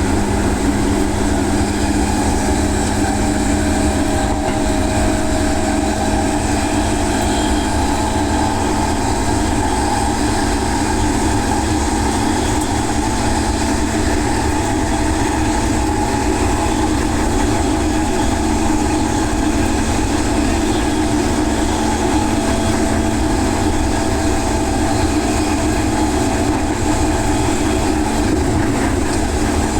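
JR West Yamatoji Line local electric train running at a steady speed, heard from inside the carriage: a continuous rumble of wheels on rail with a constant low hum.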